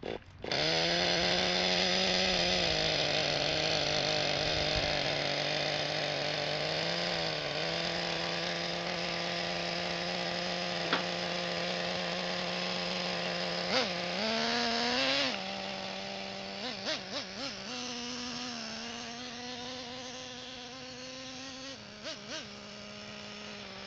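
Small nitro glow engine of a radio-controlled car buzzing steadily at a high pitch, starting suddenly and shifting in pitch a few times, with a few light clicks partway through.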